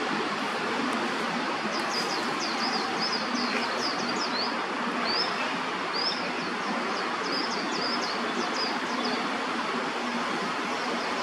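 A small bird chirping: a quick run of short, high chirps, some sliding upward, over a steady rushing background noise. The chirps start a couple of seconds in and stop near the end.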